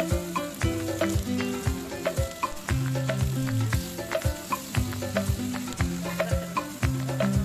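Sliced chicken breast, onions and peppers sizzling in a frying pan as a wooden spatula stirs them, under background music with a steady beat and a stepping bass line.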